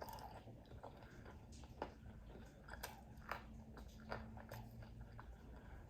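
Faint, close-up chewing of crispy fried food, with a few short crunches and mouth clicks.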